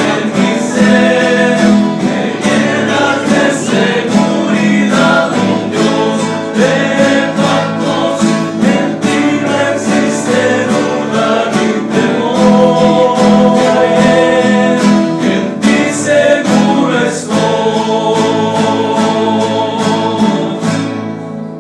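Men's rondalla singing in harmony over strummed guitars, ending on a long held final chord that fades out near the end.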